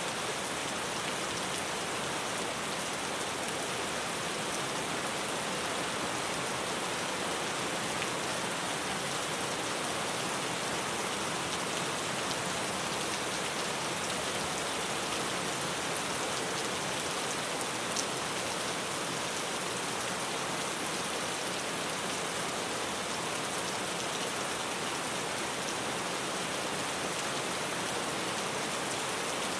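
Rain falling steadily on a tin roof, an even hiss of many drop impacts, with one sharp louder tick about two-thirds of the way through.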